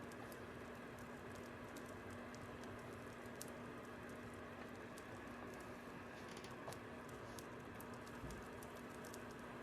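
Fire crackling: small sharp pops at irregular moments over a steady soft hiss and a low hum.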